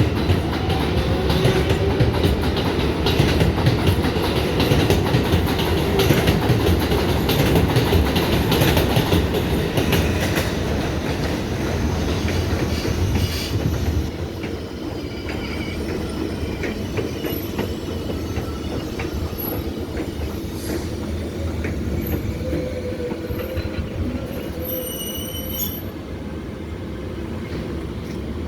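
R188 subway train running, its wheels clattering over the rails, louder for about the first half and then quieter. A brief high-pitched wheel squeal comes near the end.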